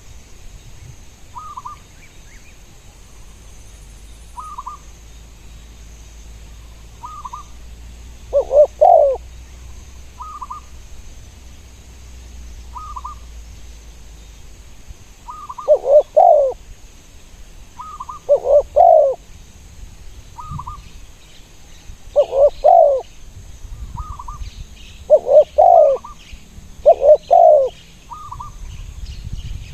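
Spotted doves cooing: a loud, nearby multi-note coo about six times, a few seconds apart and coming more often in the second half, with fainter, shorter, higher call notes repeating every couple of seconds throughout.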